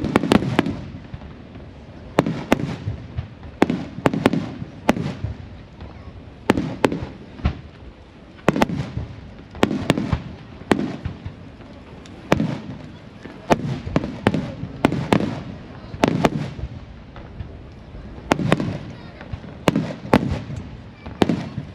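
Aerial firework shells bursting one after another at a large fireworks display: a sharp bang every second or two, each followed by a low rolling rumble, with smaller cracks in between.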